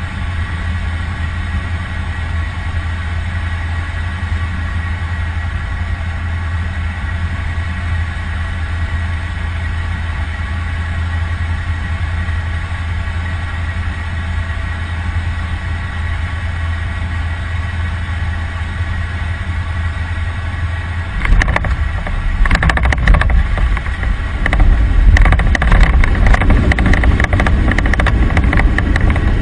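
Airplane engine running with a steady drone. About two-thirds of the way through it turns louder and rougher, with crackling and a heavier rumble.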